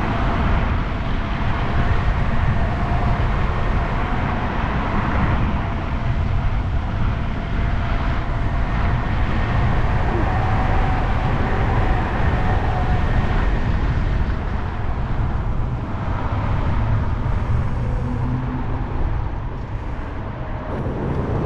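Steady wind and road noise on the microphone of a small scooter riding through city traffic, with a faint steady whine through roughly the first half.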